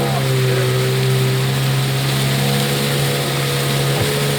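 Boat motor running at a steady speed, with a steady hiss over it.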